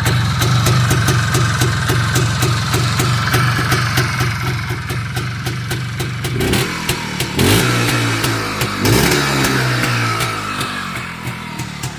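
IZh Planeta 3 motorcycle's single-cylinder two-stroke engine idling with an even beat. It is revved in a couple of short throttle blips past the middle, then drops back to idle.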